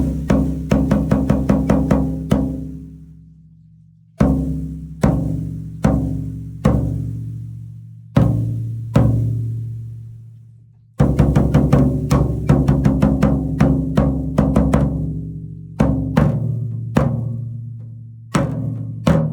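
A drum struck repeatedly: quick flurries of rapid strokes alternate with single hits, each ringing with a clear low pitch that dies away over a second or two.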